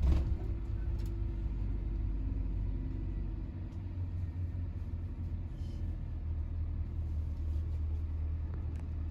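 Car driving: a steady low rumble of engine and road noise, cutting off abruptly just after the end.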